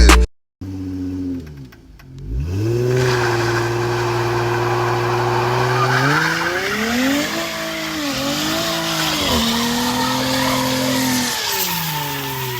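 Straight-piped Dodge SXT's V6 revving hard with tires squealing as the car slides. The revs climb sharply about two seconds in, hold, surge up and down a few times in the middle, and fall away near the end.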